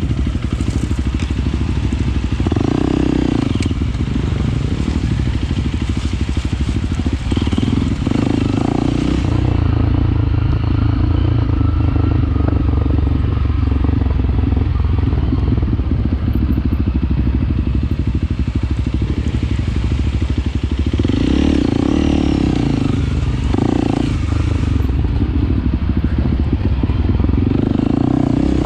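Honda CRF300L single-cylinder four-stroke engine running as the bike is ridden over rough trail, the revs rising and falling with several throttle blips.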